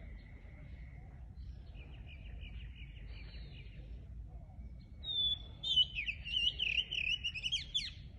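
Wild songbirds chirping. Softer calls and trills come first, then about five seconds in a closer bird sings a louder run of quick, jumping notes.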